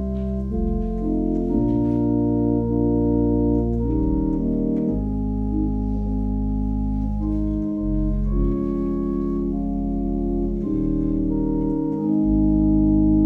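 Organ playing slow sustained chords over held bass notes, the harmony changing every second or two, swelling louder near the end.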